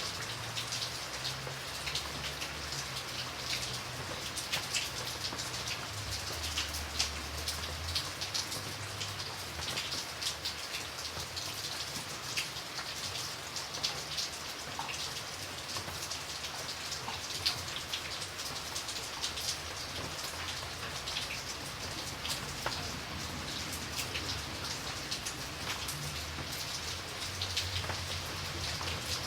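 Steady rain falling on a surface, a continuous hiss with many individual drops ticking sharply through it.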